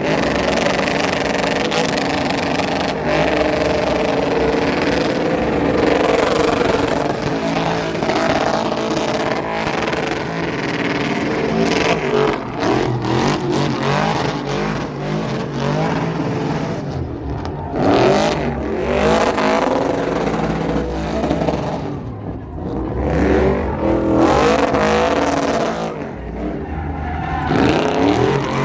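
Car engines revving and accelerating, their pitch rising and falling repeatedly over a dense rush of engine and exhaust noise.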